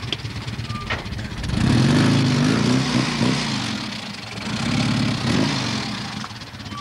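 Classic Mini's four-cylinder A-series engine idling, then revved twice, the pitch climbing and falling back each time.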